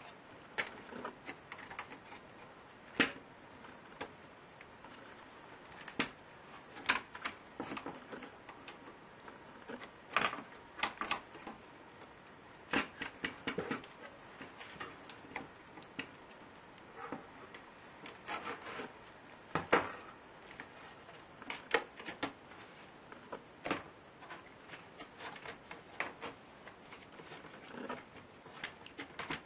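Irregular small clicks and taps of laptop parts and tools being handled: plastic and metal pieces knocking and set down, over a faint steady hiss.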